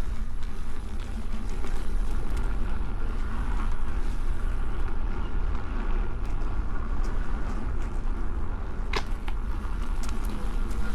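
Riding noise from a Nosfet Apex electric unicycle on a dirt trail: steady wind rush and rumble on the camera microphone, with one sharp click about nine seconds in.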